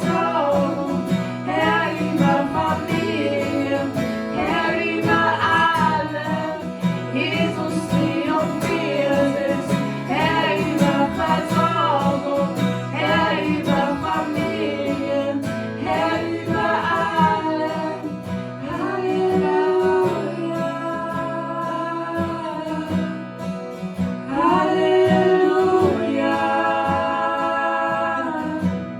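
Worship song: a voice singing over guitar accompaniment, with long held notes in the second half.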